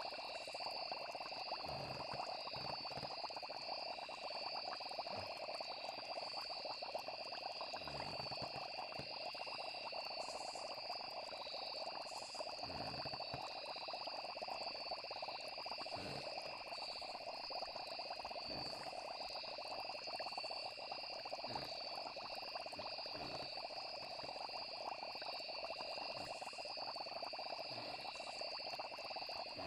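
Night chorus of frogs and crickets: continuous high insect trilling over a dense frog chorus, with scattered soft low pops every few seconds.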